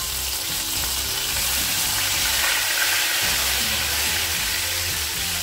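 Ginger-garlic paste sizzling in hot oil in a nonstick pan while being stirred with a silicone spatula: a steady frying hiss that swells a little in the middle.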